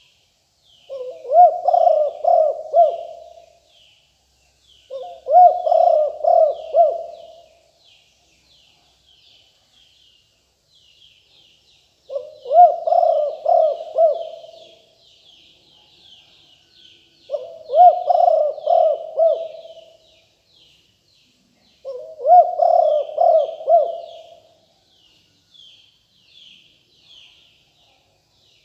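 Spotted dove cooing: five separate multi-note coo phrases, each lasting about two to three seconds with pauses between them. Faint, rapid high chirping of small birds runs behind them.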